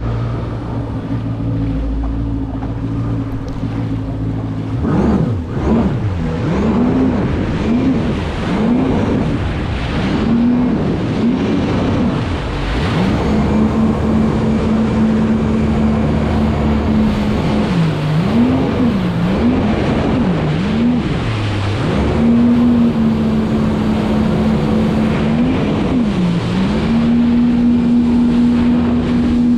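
Jet ski engine running, its pitch mostly steady but in two spells swinging quickly down and up about once a second, with rushing water and wind noise underneath.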